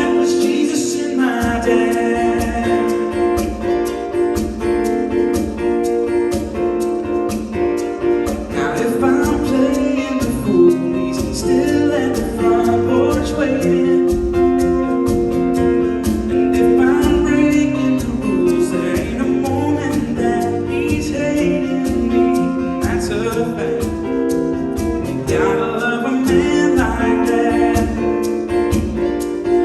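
Country-gospel song played live by a band with guitar, a melodic lead line moving over sustained chords.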